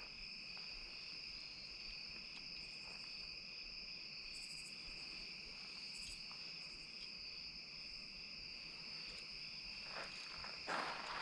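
Steady evening chorus of crickets and other insects, a continuous high trill at two pitches.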